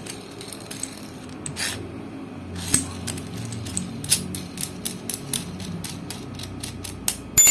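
Small metal clicks and ticks from handling a Shimano bottom bracket cup with a freshly pressed-in sealed bearing, ending in a ringing metal clink near the end.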